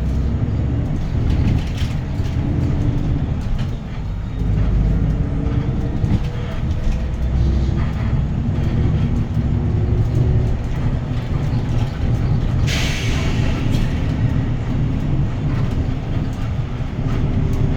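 Hyundai Green City city bus's D6GB diesel engine running under way, heard from inside the cabin, its pitch rising and falling as the bus speeds up and slows. A brief hiss cuts in about two-thirds of the way through.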